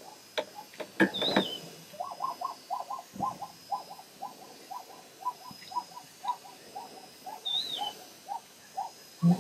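A bird calling in a steady run of short, evenly spaced notes, about three a second, with a brief higher chirp near the start and again near the end.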